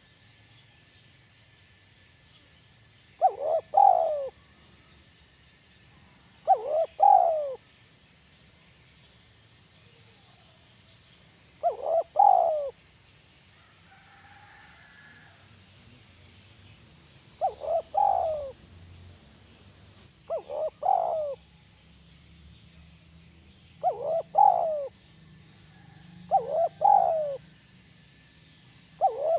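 Spotted dove (tekukur) cooing in the 'kuk 1' call style that Indonesian dove keepers favour: a short phrase of a few quick coos, repeated eight times at intervals of three to six seconds. The last phrase is cut off at the end.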